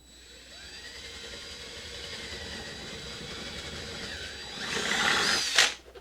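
Electric drill boring into wood. It spins up at the start, its pitch dips briefly about four seconds in, then it runs louder for about a second before stopping suddenly near the end.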